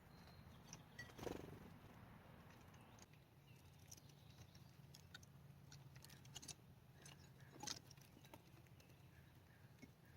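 Near silence: faint scattered small clicks and taps over a low steady hum, with a slightly louder tap about a second in and another near the end.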